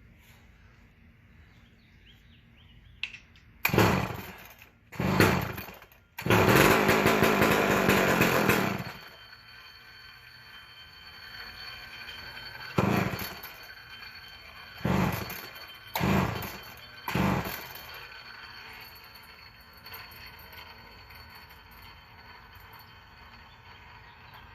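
Vintage McCulloch two-stroke chainsaw firing in short bursts that die away. It runs for about two and a half seconds after the sixth second, then catches briefly four more times and stalls, which the owner puts down to the idle being set too low.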